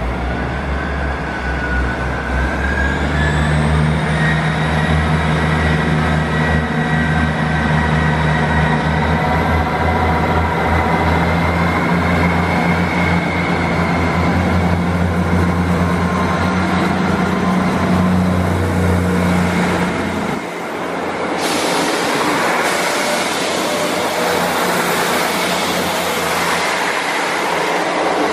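Train at a station platform: a steady low drone with a whine rising in pitch a few seconds in as it gets under way. About twenty seconds in the drone stops and a loud rushing hiss of a train moving along the track takes over.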